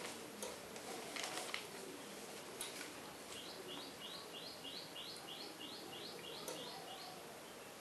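A bird chirping in a quick run of about a dozen short, high notes, roughly three a second. Before the chirps come a few light clicks and rustles, as of paper being handled.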